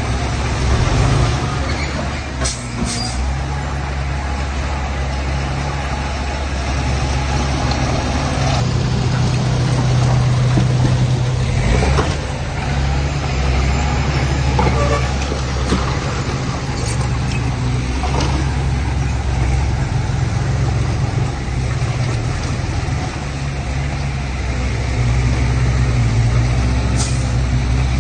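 Heavy diesel earthmoving machinery running steadily, the low engine tone rising and falling slightly, with a few short sharp sounds scattered through it.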